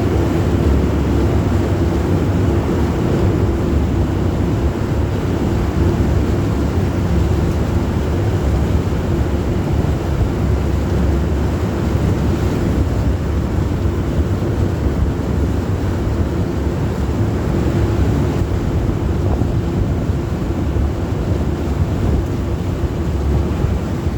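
Amphibious duck boat's engine running steadily under way on the river, a low rumble with a steady hum, with wind buffeting the microphone.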